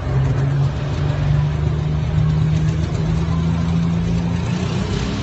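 Turbocharged International engine of a pulling tractor running hard under load, holding a steady high note that climbs a little about a second in and falls away near the end.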